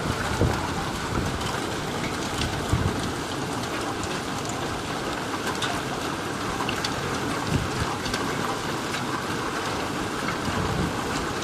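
Heavy rain mixed with hail in a thunderstorm: a steady hiss of downpour with scattered sharp ticks of hailstones striking, and a few low gusts of wind on the microphone.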